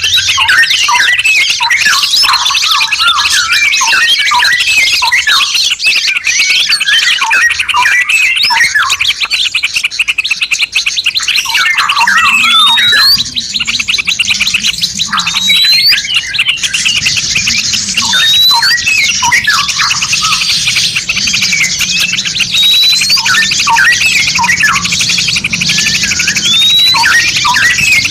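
Many songbirds singing at once in a dense layered mix: quick chirps, repeated rising whistles and a fast continuous trill, the kind of masteran recording used to tutor caged songbirds. A low steady hum joins about twelve seconds in.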